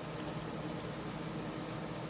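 Steady low mechanical hum with an even hiss, like a fan running.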